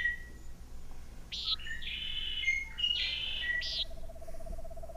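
Bird calls: a string of short high whistled chirps and quick down-slurred notes, then a long, steady, lower note begins about three and a half seconds in.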